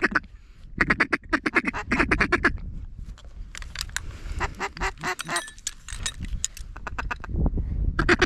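Duck calls blown by hunters: fast runs of quacks, about ten a second, in bursts, with a more varied stretch of sharper calling in the middle, working an incoming flock of ducks.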